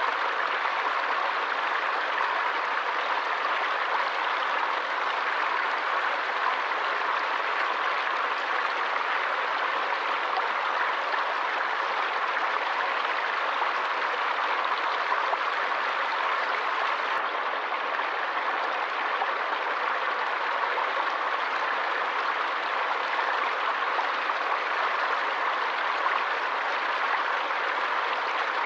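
Water in a forest stream rushing and splashing steadily, one continuous even rush with no let-up.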